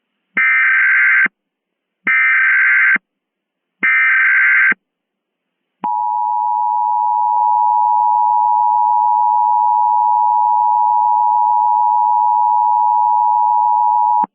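Emergency Alert System tones: three short bursts of the SAME digital header data, each under a second, followed by the two-tone attention signal (853 and 960 Hz) held steady for about eight and a half seconds.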